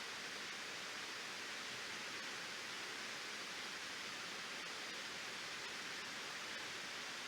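Waterfall: water pouring over the falls, a steady even hiss of falling water with no change in level.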